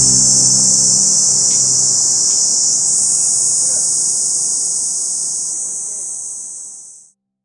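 A steady high-pitched chorus of summer insects buzzing, slowly fading and then cutting to silence about seven seconds in.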